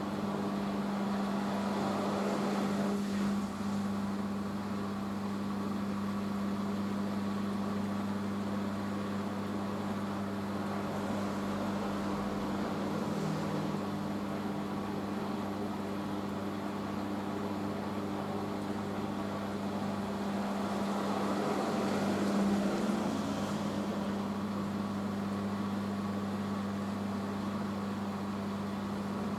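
Hoover H-Wash 500 washing machine in its rinse spin: the drum spinning with a steady motor hum and a constant rushing noise that swells slightly a couple of times.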